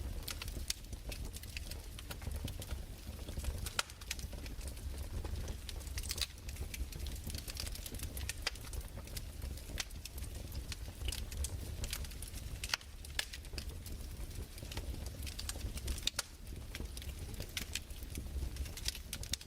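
Fireplace fire crackling: irregular small pops and snaps over a steady low rumble.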